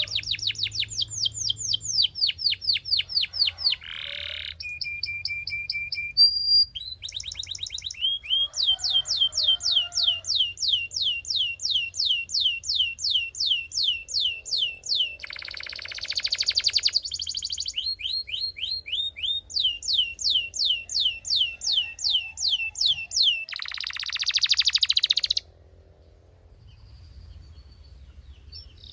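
Belgian canary singing: long rolls of rapidly repeated, falling whistled notes, broken by a brief steady trill and two harsh buzzy phrases, then turning much quieter near the end.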